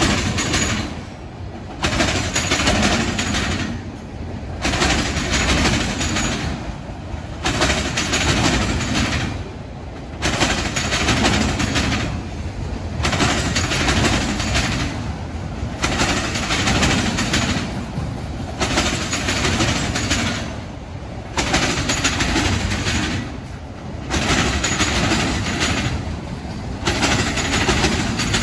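Freight train of autorack cars rolling past at close range, its steel wheels on the rails making a steady rumble and clatter that swells and drops about every two and a half seconds.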